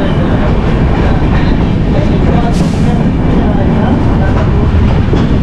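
Kirandul Express passenger train running, heard from on board: a loud, steady low rumble of the moving train on its rails, with a brief hiss about two and a half seconds in.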